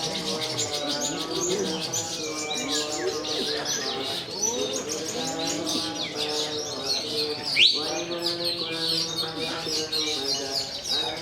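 Several long-tailed shrikes (cendet) singing at once in dense, rapid chirping trills. A single loud rising whistle comes about seven and a half seconds in.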